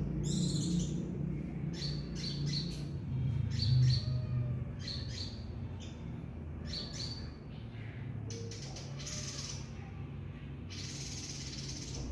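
A small songbird chirping busily in short, high notes, with a couple of longer harsh, raspy notes near the end, over a steady low background hum.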